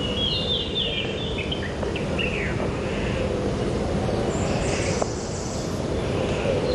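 Birds chirping over a steady outdoor background rumble, with a quick run of high chirps in the first second or so and a short falling call a little later.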